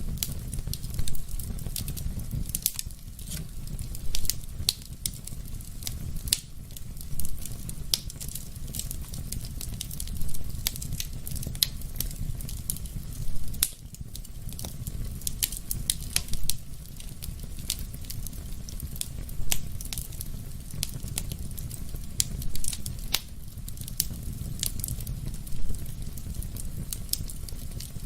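Fire burning in a fireplace: a steady low rumble of flames with constant crackling and a sharp, louder pop every few seconds.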